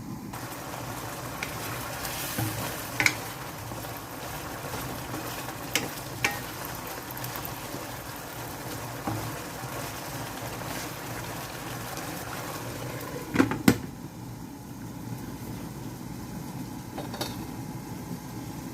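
Chicken wings cooking in a pan, a steady sizzle broken by a few sharp clicks of a utensil against the pan, the loudest pair about two thirds of the way through.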